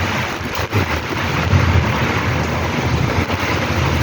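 Heavy rain pouring down in a strong gusty wind, the gusts hitting the microphone as an uneven low rumble that swells and fades.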